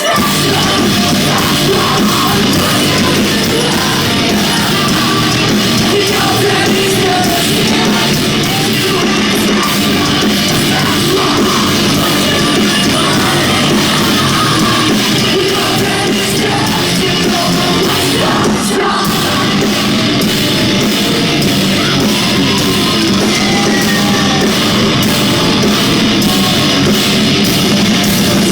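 A rock band playing live and loud: distorted electric guitars and drums in a heavy, steady wall of sound, with singing over it.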